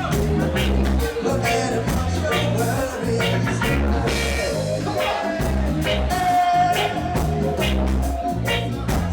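Live reggae band playing: a deep, repeating bass line under steady offbeat chops, with held melodic notes over the top.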